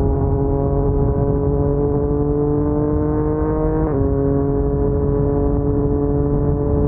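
Yamaha MT-09's crossplane three-cylinder engine running through an Akrapovic carbon full-system exhaust at low speed. The note climbs gently, drops suddenly about four seconds in as at a gear change, then holds steady.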